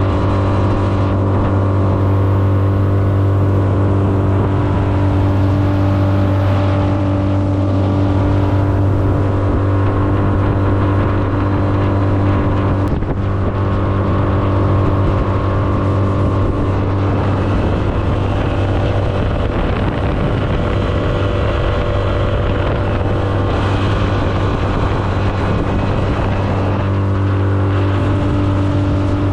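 A brand-new Yamaha 20 hp four-stroke tiller outboard, in its break-in hours, running steadily at cruising throttle as it pushes a johnboat, with wind on the microphone. Through the middle stretch the steady engine note turns rougher and less even, then evens out again near the end.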